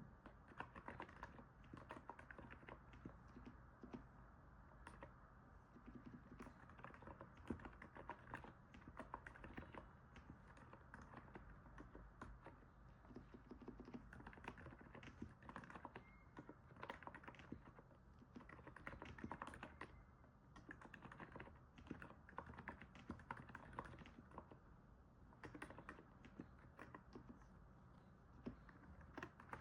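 Continuous typing on a NiZ 68 Pro electrostatic capacitive keyboard: a quick, uneven stream of soft key presses, the sound likened to stepping on snow, with a few brief pauses between bursts.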